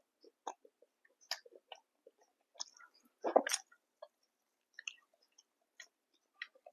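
Close-miked chewing and eating: wet mouth smacks and small clicks throughout, with one louder, longer bite or crunch about halfway through.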